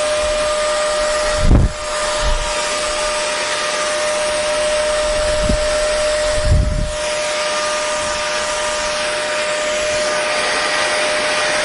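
Hair dryer running steadily: a continuous rushing blow with a steady motor whine. Two short low thumps break in, about a second and a half in and again near the middle.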